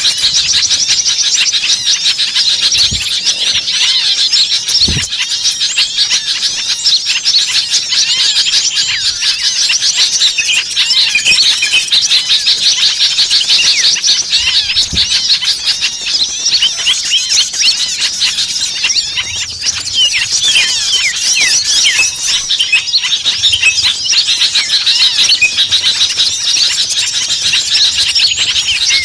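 Dense chorus of many small birds calling excitedly at once, with overlapping rapid high chirps and twittering trills and no pause. It is a bird-luring (pikat) recording of agitated, noisy small songbirds, used to draw other small birds in.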